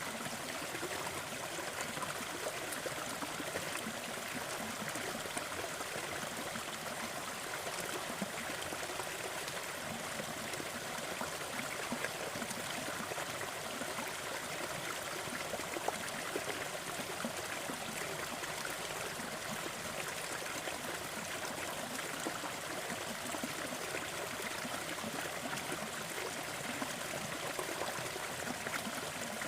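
Small forest waterfall: a steady, even rush of falling and running water.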